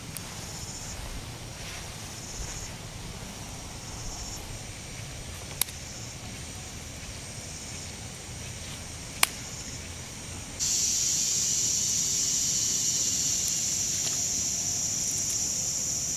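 Two sharp clicks a few seconds apart, then a loud steady hiss that starts abruptly about ten seconds in.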